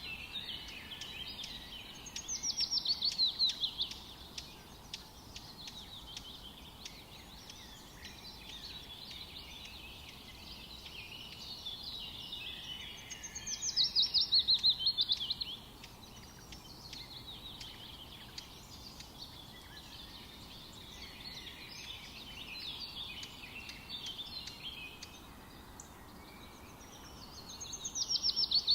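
Woodland birds singing. One bird repeats a loud song of rapid notes that fall in pitch and last about two seconds, three times at even intervals. Other birds chirp and twitter more softly in between.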